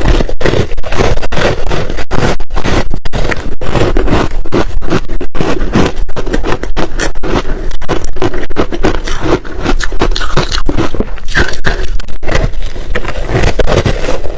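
Crunchy ice being chewed close to the microphone, a loud, dense run of rapid, irregular crunches.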